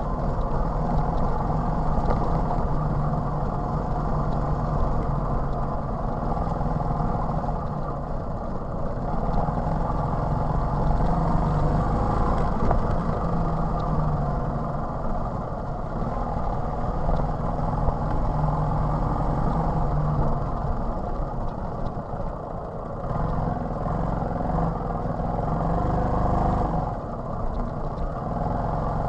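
TVS XL 100 moped's small single-cylinder four-stroke engine running steadily under way, its pitch drifting a little up and down with the throttle.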